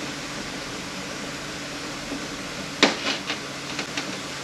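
Hand tools clicking against metal parts inside an automatic transmission while prying at a stubborn part: one sharp click nearly three seconds in, then several lighter ticks. A steady low hum runs underneath.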